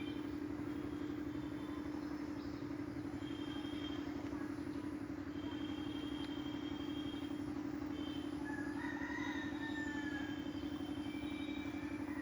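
A steady engine hum from a motor running at constant speed, with a fast even pulse. A bird calls briefly about three quarters of the way through.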